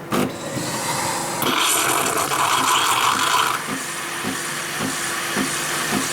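Automatic coffee machine dispensing and frothing extra milk: its pump beats about twice a second under a steady frothing hiss, which grows louder for a couple of seconds in the middle.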